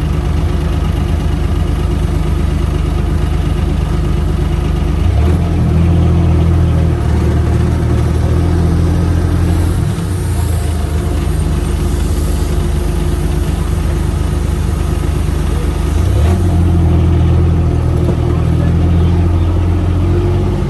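UTV engine running at idle. Twice, about five seconds in and again near the end, its low note grows louder for several seconds and then settles back.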